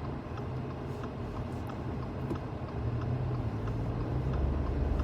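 Car engine and road noise heard from inside the cabin while driving, a steady low hum that grows louder about three seconds in as the car picks up speed.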